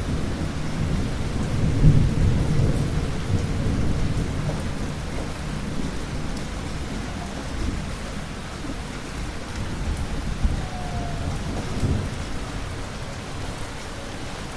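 Thunder rumbling over steady rain. The deepest, loudest roll comes about two seconds in and fades slowly, with a smaller rumble near the end.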